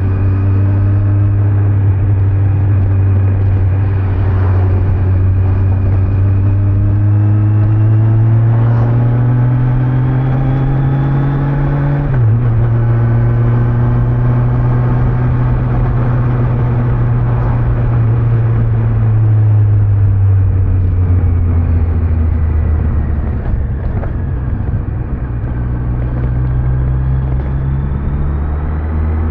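Kawasaki Z900's inline-four engine, stock exhaust, pulling under way. Its note rises slowly for about twelve seconds, drops sharply at an upshift, then holds and eases to a lower pitch as the bike slows, before picking up again near the end. Wind and tyre noise run underneath.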